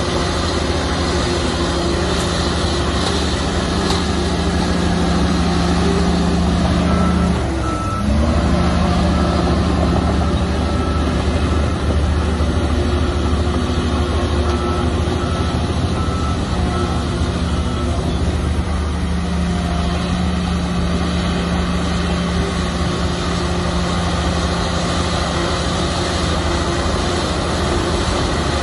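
Shantui bulldozer's diesel engine running steadily under load, its note dipping and bending briefly about seven seconds in. A reversing alarm beeps at an even pace for about ten seconds in the middle as the machine backs up.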